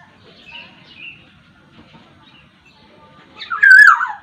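Black-naped oriole (Sumbawa kepodang) song: faint short chirps, then one loud call near the end that falls in pitch.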